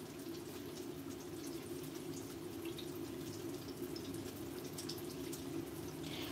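Chicken frying in hot oil in a pot: a faint, steady sizzle with scattered small pops, over a low steady hum.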